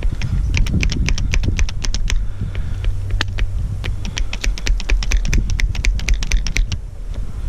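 Hand lever grease gun being pumped quickly, a rapid series of sharp clicks several a second with a short break just after two seconds in. The gun has an airlock and is being worked to get the grease flowing again.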